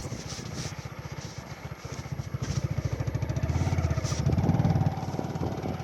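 Motorcycle engine running while being ridden, its low pulsing note growing louder about two seconds in and loudest near the end.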